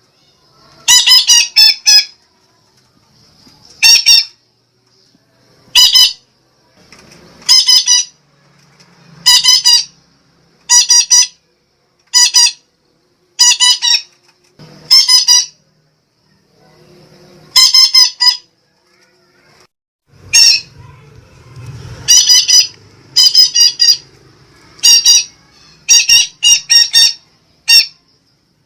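Sumatran betet parakeet calling: loud, shrill squawks given singly or in quick runs of two to four, repeating every second or two. It is a lure call, played to attract wild parakeets.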